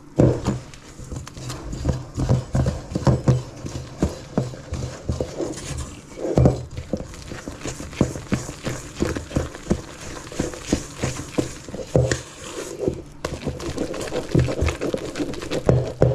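Thick flour-and-egg batter being beaten by hand in a bowl, the utensil knocking against the bowl in a quick, irregular run of knocks.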